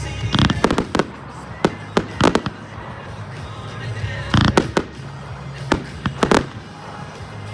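Fireworks shells bursting in quick clusters of sharp bangs, with a lull around three seconds in before a fresh volley of the loudest bangs.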